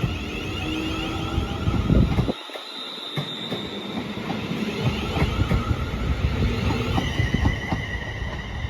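Class 380 electric multiple unit moving at the platform, its wheels rumbling and clicking on the rails. A steady high-pitched whine joins in about two seconds before the end.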